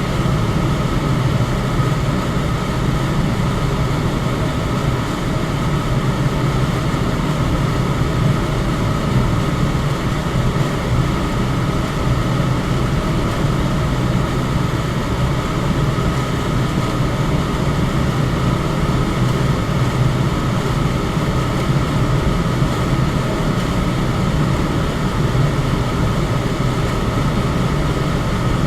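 Electric fan running at a steady speed: an even rush of moving air over a low hum, with a faint steady higher tone.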